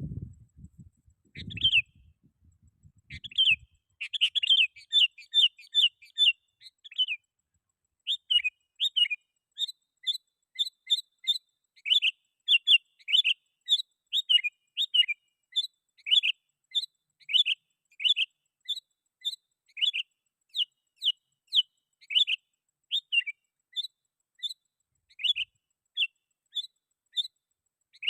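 Sooty-headed bulbul (kutilang) singing steadily: a long run of short, bright, bubbling chirp notes repeated several times a second, with a few low thumps in the first few seconds.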